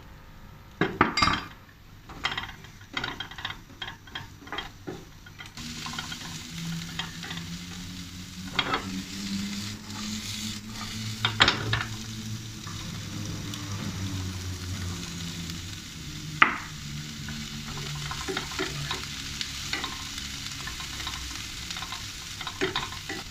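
Asparagus pieces tipped into a hot, oiled pan of garlic knock and clatter in. About five seconds in, a steady sizzle of stir-frying sets in, with occasional knocks and scrapes of a wooden spatula against the nonstick pan.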